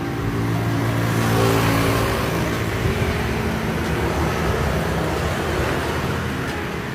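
A motor vehicle passing close by on the road, its engine and tyre noise swelling to a peak about a second and a half in, then easing into steady traffic noise.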